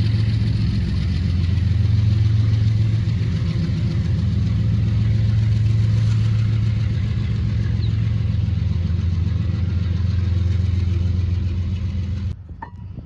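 Diesel locomotive engine running steadily with a deep, even hum. It cuts off suddenly near the end.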